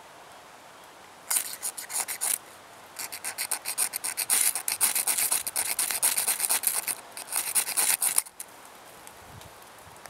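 Flint striker (ferro rod) scraped hard and fast with a striker to throw sparks onto tinder: a short run of rasping strokes about a second in, then a longer run lasting about five seconds.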